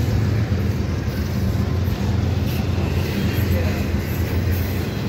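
Loaded double-stack well cars of a CSX intermodal freight train rolling past: a steady rumble of steel wheels on the rails, with no pause or change.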